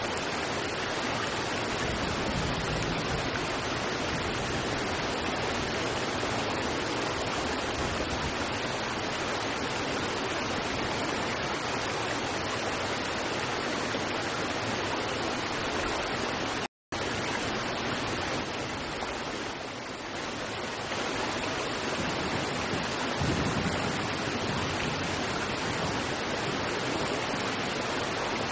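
River water rushing over rocks in a steady, even wash. About two-thirds of the way through it cuts out completely for a split second, then resumes.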